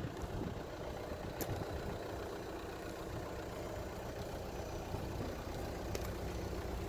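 A car engine idling steadily, with a couple of faint clicks.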